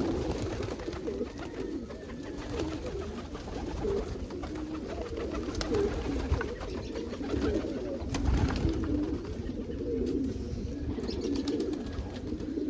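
Many domestic pigeons cooing together in a loft, a continuous overlapping burble.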